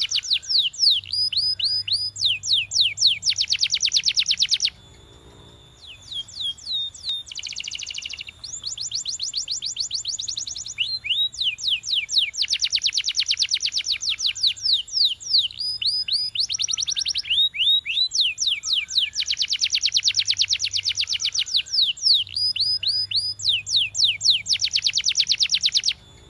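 Belgian canary singing: long fast trills of rapidly repeated notes alternate with runs of falling whistled notes, with a short break about five seconds in.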